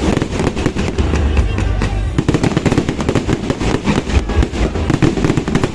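Fireworks barrage: a rapid, unbroken stream of overlapping pops and cracks, many each second.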